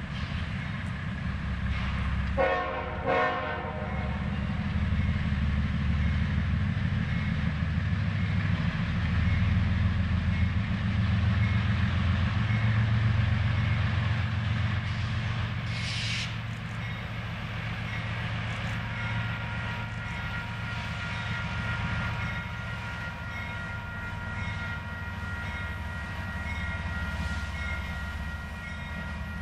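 Union Pacific diesel locomotives leading a double-stack container train approach with a steady low engine rumble. A short chord of the locomotive horn sounds in two quick parts about two and a half seconds in.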